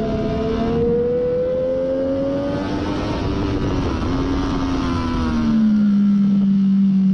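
2014 Triumph Daytona 675's three-cylinder engine through a Hindle slip-on muffler, under load on track. Its pitch climbs over the first couple of seconds, wavers, then drops about two-thirds of the way in and holds steady at its loudest near the end.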